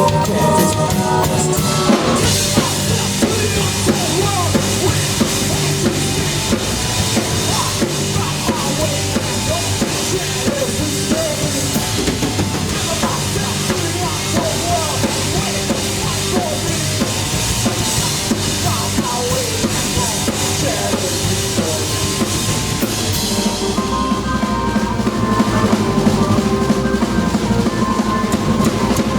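A live band playing an instrumental passage, with a drum kit to the fore: bass drum, snare and cymbals over bass and other instruments. The cymbal wash drops out about three-quarters of the way through while the band plays on.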